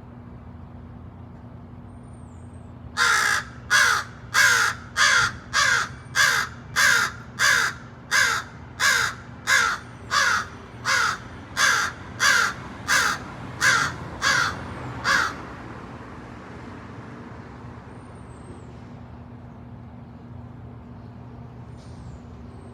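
American crow cawing: a run of about eighteen loud caws at a steady pace of about three every two seconds, stopping about three-quarters of the way through.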